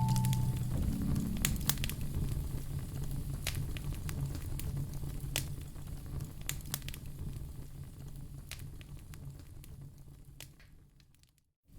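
Wood fire crackling in a fireplace, with scattered sharp pops over a low, soft steady tone. Both fade out gradually and cut to silence just before the end.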